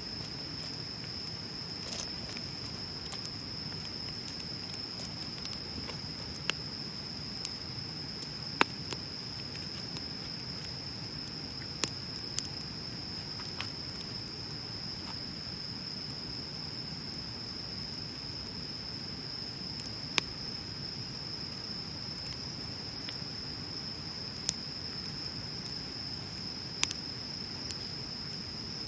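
Wood bonfire burning with a steady low rush, broken by sharp, scattered crackles and pops, about seven in all. A steady high-pitched whine runs underneath.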